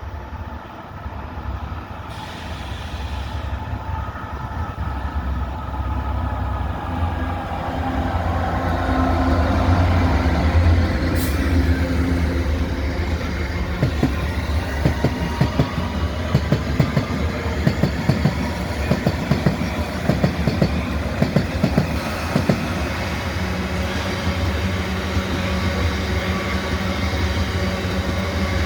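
A train running through the station, its low rumble building over the first ten seconds. From about halfway a quick run of wheel clicks over the rail joints follows, with a faint whine above it.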